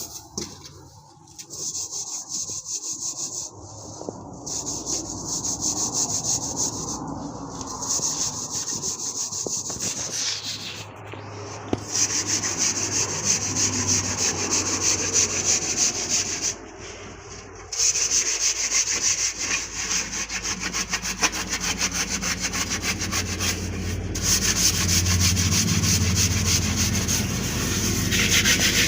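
Rapid, continuous scraping and rubbing strokes, broken by a few short pauses.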